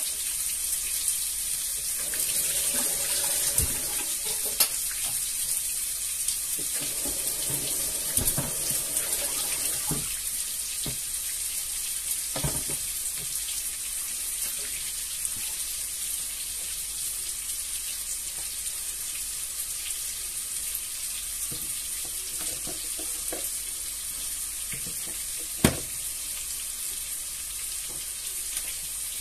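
Chopped onion and garlic frying in hot oil in a pan for a sofrito, a steady sizzle. A few knocks come through it, the sharpest near the end.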